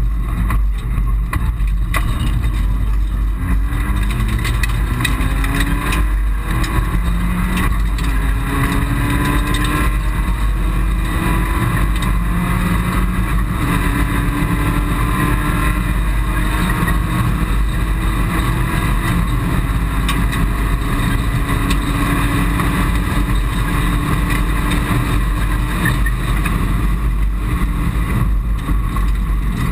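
Mitsubishi Colt rally car heard from inside the cabin, its engine revving up through the gears with several quick upshifts in the first ten seconds, then running at steady high revs. A constant deep road-and-tyre rumble runs underneath.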